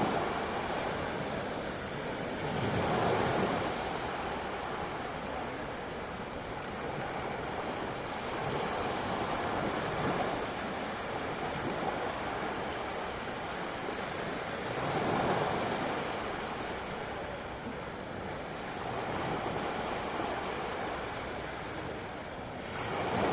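Adriatic Sea surf: a steady wash of waves that swells each time a wave breaks, about every five to eight seconds.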